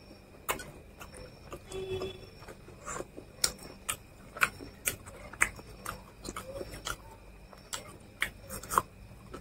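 A man chewing food close to the microphone, with irregular sharp wet mouth clicks and lip smacks.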